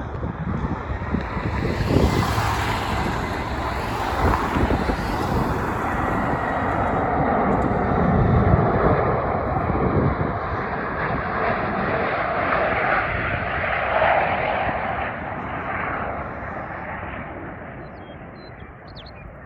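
Airbus A380 jet engines running loud as the airliner passes close while landing. The rumble swells over the first couple of seconds, stays strong for several seconds, then slowly fades away.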